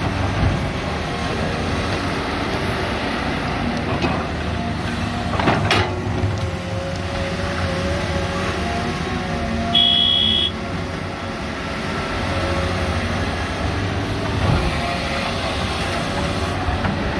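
Hydraulic excavators, a CAT 320 Next Gen and a Komatsu PC200-7, working in rock: a steady diesel engine drone with hydraulic whine. Sharp knocks from the bucket striking rock come a few times, loudest around four to six seconds in, and a short high beep sounds about ten seconds in.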